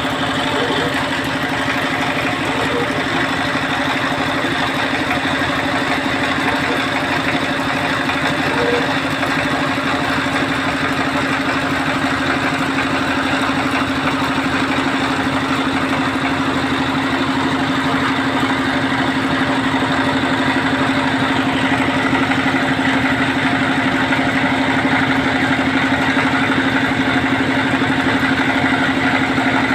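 Engine of a water-well drilling machine running steadily at an even speed, with a constant hum.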